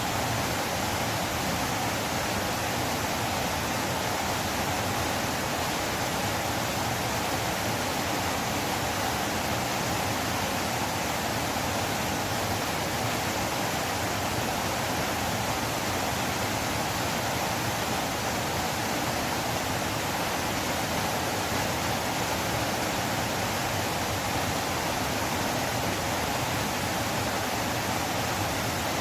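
River water flowing, a steady unbroken rush with no change in level.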